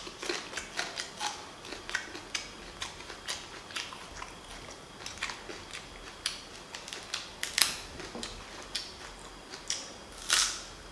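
Close-up crunching and chewing of raw spring onion stalks: a run of small crisp crunches, with a louder snapping bite about seven and a half seconds in and another near the end.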